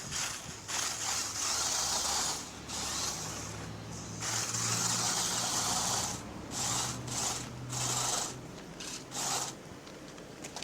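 Stock electric motor and gearbox of an RC rock crawler whirring in repeated bursts, running for a second or two at a time then stopping, with shorter spurts near the end. This is a test run of the motor after a tune-up.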